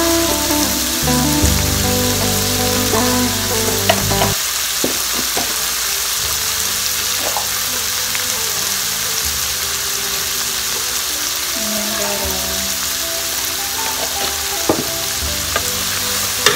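Squid and petai sizzling steadily in hot oil as they are stir-fried in a pan, with a few sharp clicks of the spatula against the pan.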